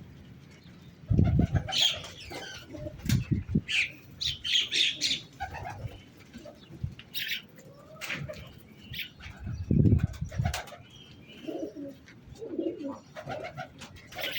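Pigeons cooing with several bursts of wing flapping, and high chirps from small birds.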